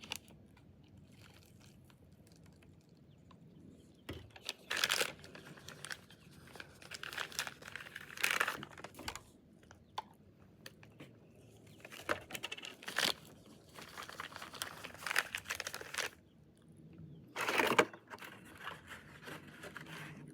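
Plastic MRE packaging crinkling and rustling in irregular bursts as a pouch is handled, with a few louder crackles and quiet stretches between.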